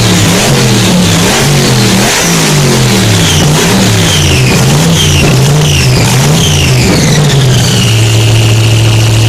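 Car engine with a loud exhaust being revved in repeated quick blips, its pitch rising and falling, then held at a steady note near the end.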